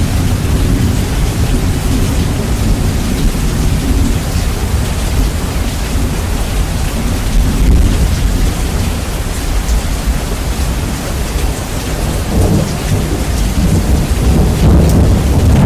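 Steady rain with rumbling thunder, heavily bass-boosted so that the deep rumble dominates and swells and fades throughout.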